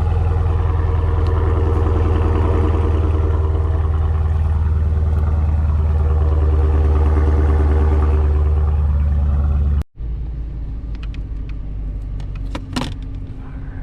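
Dodge Challenger's 6.4-litre 392 Hemi V8 idling steadily while it warms up after a cold start, with a deep, even rumble. About ten seconds in, the sound cuts off sharply and gives way to a quieter, steady engine hum with a few light clicks.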